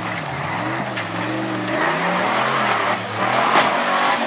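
Lifted 4x4's engine revving, its pitch rising and falling, with a louder rushing noise building in the second half.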